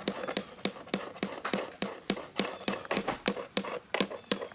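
A hammer driving a nail into wood, with quick, evenly spaced strikes at about three a second.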